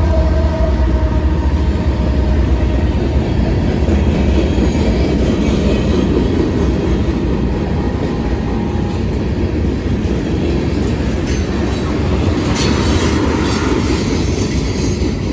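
Norfolk Southern mixed freight train rolling past, a steady loud rumble and clatter of wheels on rail. Higher-pitched wheel squeal and screeching come in near the end.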